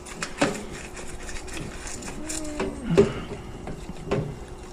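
A hand scraper scraping and knocking against the plastic inside of a dishwasher as caked-on grease and mold are scraped out, in irregular strokes with a few short squeaks about two to three seconds in.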